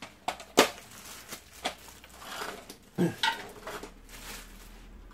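Hard plastic parts of a Bosch cordless stick vacuum clacking and knocking as they are handled and fitted together: a string of separate sharp clicks, the loudest about half a second in.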